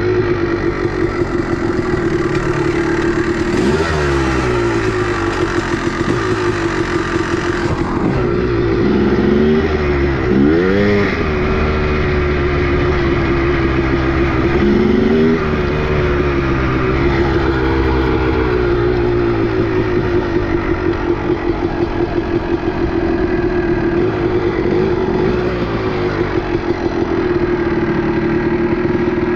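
Two-stroke motorcycle engine running continuously, its revs dipping and rising several times, most sharply about 4, 10 and 15 seconds in, between steady stretches at a constant speed.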